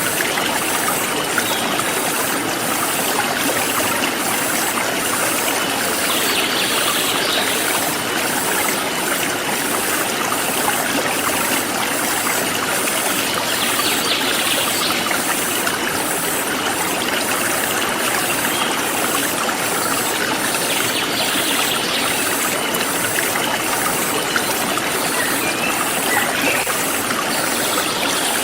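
A forest stream flowing steadily, with a high, even chirping of insects pulsing about one and a half times a second, and a few brief higher calls every several seconds.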